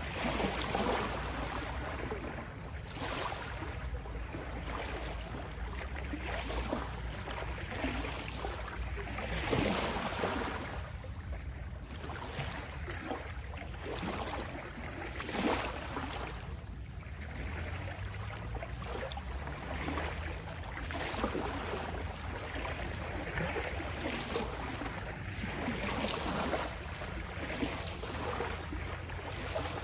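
Small sea waves rippling and lapping at the shore, the wash swelling and easing every few seconds over a low steady rumble.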